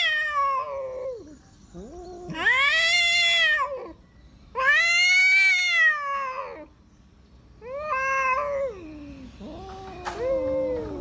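Male cats caterwauling at each other in a territorial standoff: long, loud yowls that rise and then fall in pitch, separated by short pauses, then lower, overlapping growling yowls near the end.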